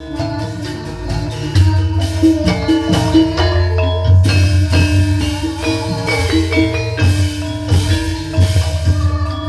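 Javanese gamelan music accompanying ketoprak theatre: bronze metallophones struck in quick, shifting note patterns over a steady low drum beat.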